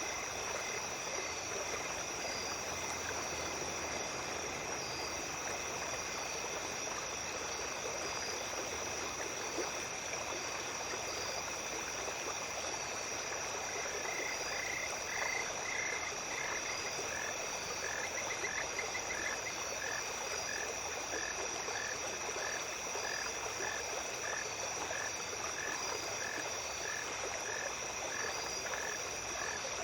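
Night stream ambience: water flowing steadily over stones while insects trill in a steady chorus. Through it a small animal calls in short notes, about one and a half a second, clearer from about halfway.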